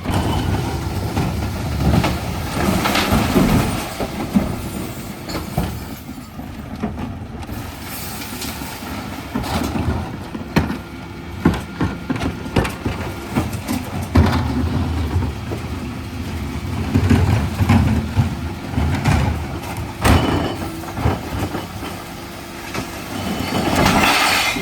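Dennis Elite refuse truck running, its engine rumbling steadily under repeated clatters and knocks, with louder surges about three seconds in and near the end.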